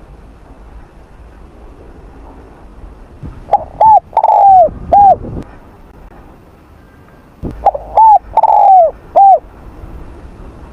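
Spotted dove cooing: two loud phrases of four coos each, about four seconds apart, the third coo of each longer and falling away at its end.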